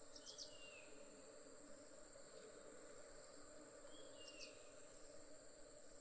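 Faint outdoor ambience: an insect's high-pitched trill, pulsing on and off steadily, over a low steady hum. A bird gives a short falling call twice, about half a second in and about four seconds in.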